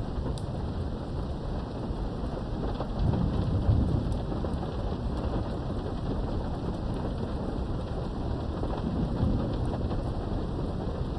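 Steady rain with scattered drop ticks and low rolls of thunder, heard from indoors behind a window. The louder roll swells about three to four seconds in, and a lighter one comes about nine seconds in.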